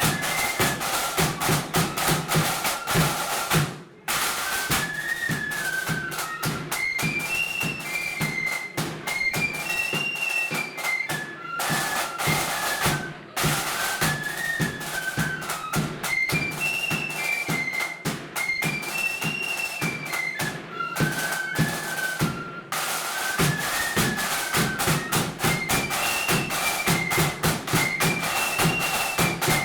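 Blood-and-thunder marching flute band playing a tune: a repeating flute melody over rapid snare drumming and a steady bass drum beat. The sound breaks off briefly about four, thirteen and twenty-three seconds in.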